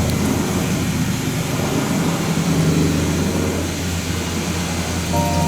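A vehicle engine running steadily with a low hum. Music comes in near the end.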